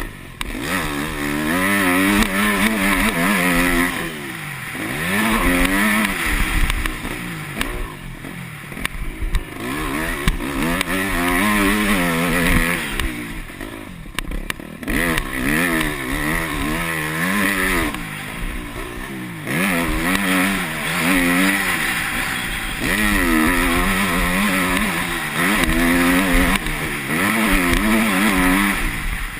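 Yamaha YZ250F's 250cc single-cylinder four-stroke engine being ridden hard round a motocross track, revving up and dropping off again and again, about every two to three seconds, as the throttle is worked through corners and straights. The engine drops briefly about midway.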